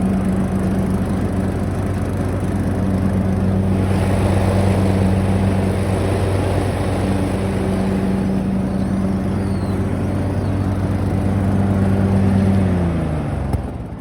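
Single-cylinder Briggs & Stratton Intek engine running steadily at cutting speed, with the mower deck's blades spinning and cutting grass. About a second before the end the engine winds down in pitch and stops, with a click.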